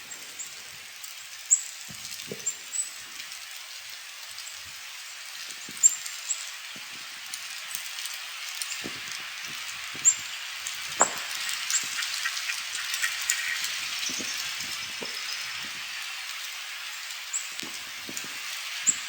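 Steady hiss of a snowstorm, a little stronger after about ten seconds in, with scattered small clicks and taps and a few brief high chirps.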